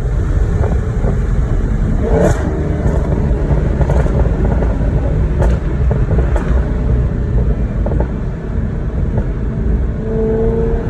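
Supercharged 6.2-litre V8 of a 2018 Dodge Charger Hellcat running loud through a Corsa Xtreme exhaust with its valves open. A few sharp cracks come between about two and six and a half seconds in, and the engine note rises near the end.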